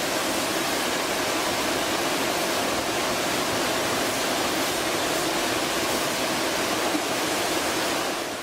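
Muddy flash-flood torrent rushing steadily, a dense even noise of fast-moving water that fades out at the very end.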